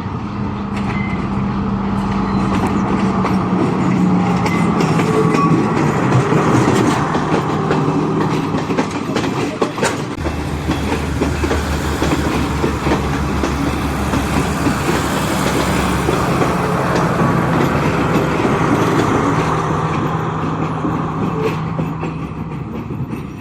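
Diesel passenger train rolling past at close range: a steady engine drone under the clatter and clicks of wheels over rail joints, loudest early on and easing off near the end.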